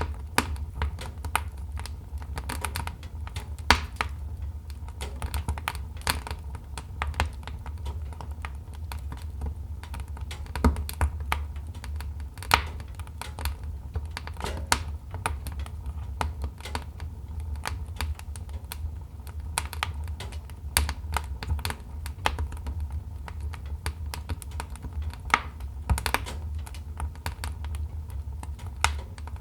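Wood fire crackling, with many irregular snaps and pops over a steady low rumble.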